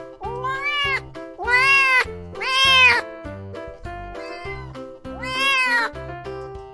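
Kitten meowing four times, each call rising then falling in pitch, over background music with a steady bass beat.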